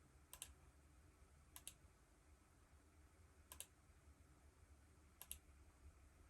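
Faint computer mouse double-clicks, four pairs of quick clicks spaced a second and a half to two seconds apart.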